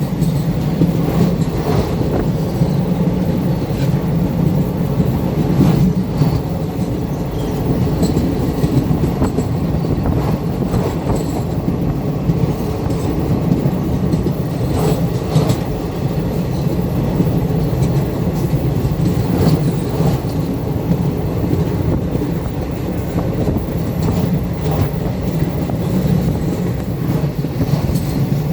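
Train running along the track: a steady loud rumble with scattered sharp clacks of wheels over rail joints.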